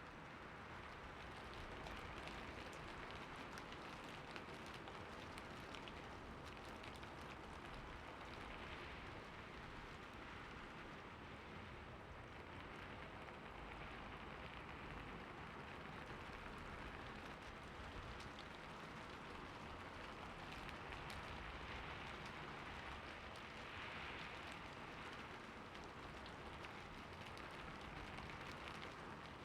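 Steady light rain falling, a soft even patter of raindrops on a surface, with faint individual drop ticks.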